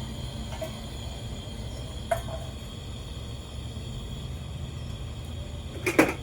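A few light knocks or clicks, the loudest a double knock near the end, over a steady low background rumble.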